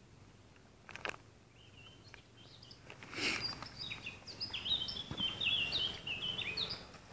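A songbird singing a long, fast phrase of short high chirping notes that jump up and down, lasting about five seconds. A brief rustle about three seconds in.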